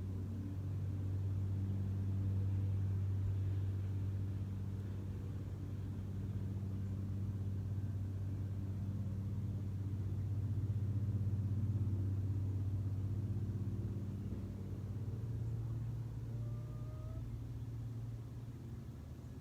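A low, steady engine hum, its pitch shifting slightly about fifteen seconds in.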